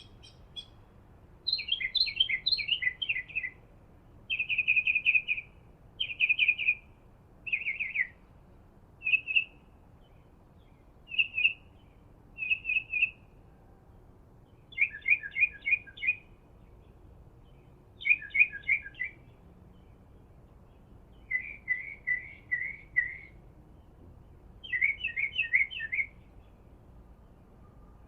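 A songbird singing short trilled phrases again and again, about one every two seconds with brief pauses between them.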